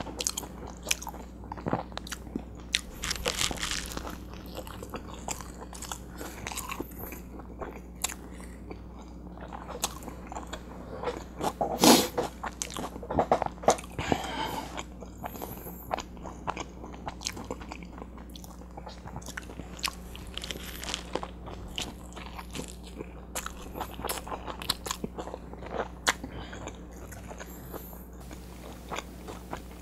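A person chewing and biting into a grilled butter chicken burrito with rice and vegetables, close to a clip-on microphone: irregular crunching and wet mouth sounds, with a louder crunch about twelve seconds in.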